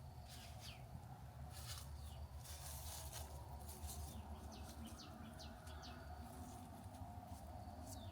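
Faint outdoor ambience with short, scattered chirps and rustles over a low steady hum.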